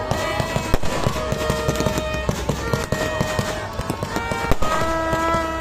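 Fireworks crackling and popping in a rapid irregular stream, with a couple of sharper bangs, over music with held notes playing from loudspeakers.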